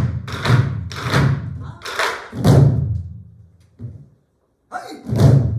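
Ensemble of Korean buk barrel drums struck together in unison: heavy strokes, each with a sharp crack and a deep ringing boom, five or so in quick succession. There is a short break around the middle, then the strokes start again near the end.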